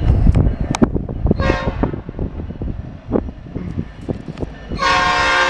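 Norfolk Southern freight locomotive approaching, with a low rumble and scattered knocks. A short pitched tone sounds about a second and a half in. Near the end the locomotive's air horn starts a loud, steady multi-note blast and holds.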